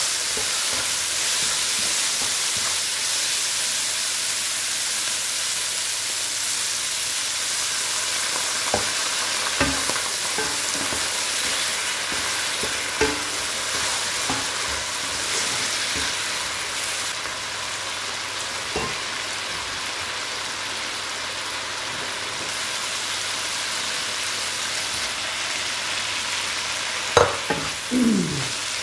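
Eggplant and anchovy stir-fry sizzling steadily in a pan, with a spatula knocking against the pan now and then.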